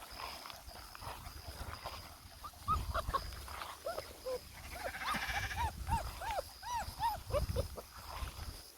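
Puppies yipping and whimpering: a run of short, high, rising-and-falling yelps, many in quick succession through the middle of the stretch.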